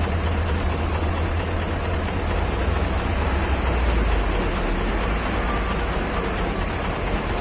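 A heavy vehicle's engine running steadily with a low rumble, the rumble settling lower in pitch about halfway through.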